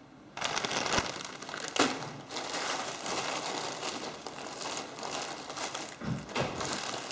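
Plastic wrapping crinkling and crackling as it is handled and opened around a piece of fondant, starting about half a second in and going on continuously, with a couple of sharper crackles early on.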